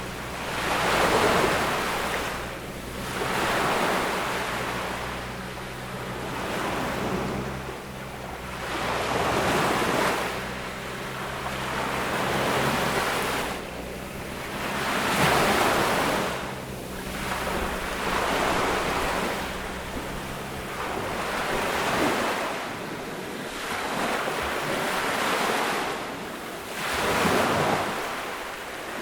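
Waves washing onto a sandy beach, the surf rising and falling about every three seconds. A low steady hum lies underneath and stops about two-thirds of the way through.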